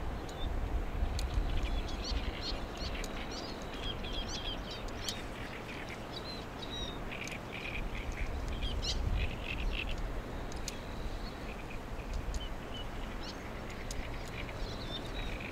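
Birds chirping and calling in short, scattered notes, over a steady low rumble.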